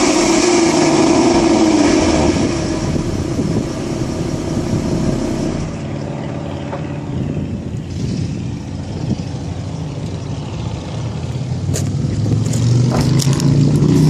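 2012 Ford Mustang's 3.7-litre V6 running through its stock exhaust. The engine is loud for the first couple of seconds, eases off to a quieter note, and builds again near the end, with a few sharp clicks late on.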